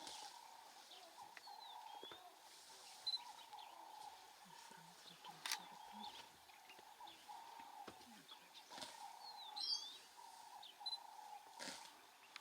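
Faint bush ambience: scattered short bird chirps over a steady, faint high drone, with a few sharp clicks.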